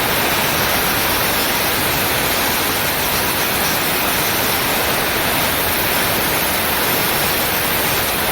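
Compressed-air blow gun blasting continuously, a steady loud rushing hiss, used to clean and dry spilled petrol off the fuel pump and its lines on top of the tank.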